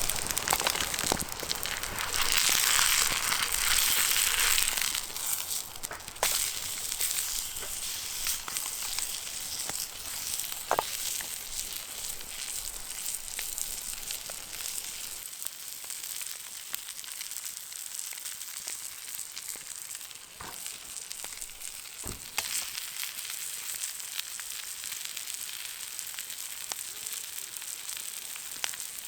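Food sizzling in a frying pan over a wood fire, a steady hiss that is louder for the first few seconds and then settles, with a few sharp pops along the way.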